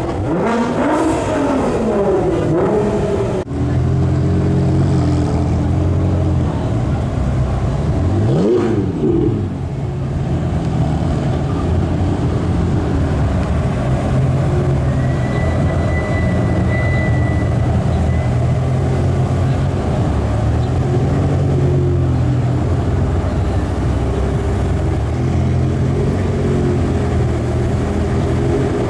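Sports car engines running in slow traffic, rumbling steadily, with sharp rev-ups that rise and fall in pitch near the start and again about eight seconds in. A brief thin high tone sounds around the middle.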